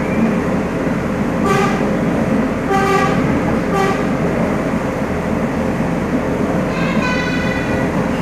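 Passenger train running with a steady rumble, with its horn giving three short toots in the first few seconds and one longer, higher toot about seven seconds in.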